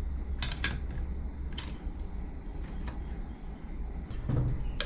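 A few separate metallic clicks and clinks from hand tools and loose carburetor parts as a Quadrajet four-barrel carburetor is taken apart, over a steady low hum.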